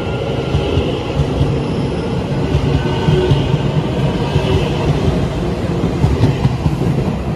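Puyuma (TEMU2000) tilting electric express train departing along the platform, its cars rolling past with a steady, loud low rumble of wheels on rail.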